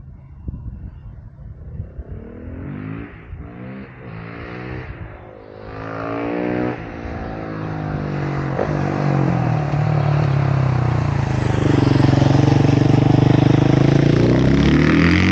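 KTM 690 SMC R's single-cylinder engine revving and accelerating, its pitch rising and falling several times as it goes through the gears. From about ten seconds in it grows louder and holds a high, steady pitch under hard acceleration.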